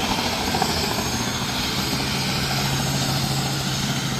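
Helicopter running with a steady, dense engine and rotor noise; a low steady hum comes in about a second in and holds.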